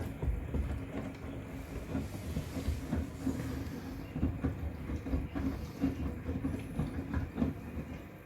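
Miele WCR 870 front-loading washing machine tumbling wet bath towels in its drum on a cotton wash: an irregular run of soft thuds and sloshes over a steady motor hum.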